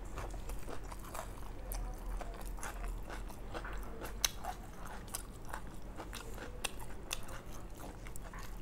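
Close-up chewing and crunching of mixed fried rice eaten by hand, with irregular wet mouth clicks and crisp crunches from its barely cooked, raw-tasting carrots and vegetables. One sharper click comes about four seconds in, over a steady low hum.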